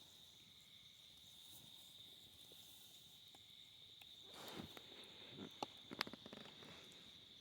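Faint, steady chirring of crickets, one continuous high note. About four seconds in come a short rustle and a few sharp clicks.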